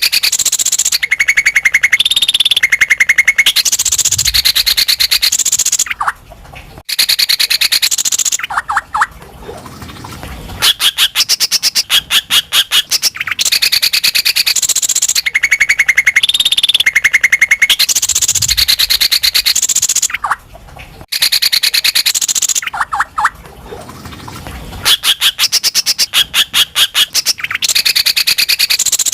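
Cucak ijo (greater green leafbird) singing loudly in fast runs of sharp, rapidly repeated high notes, broken by short pauses. The song is a recording that repeats about every 14 seconds.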